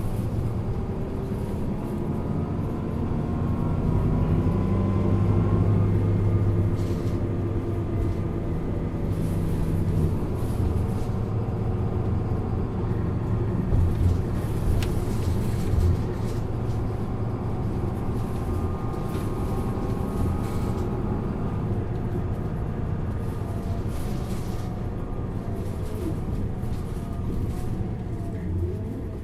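Isuzu Erga LV290N1 city bus's four-cylinder turbo-diesel engine running under way, its note rising and levelling off a few times as it pulls through the gears, with a louder swell about five seconds in.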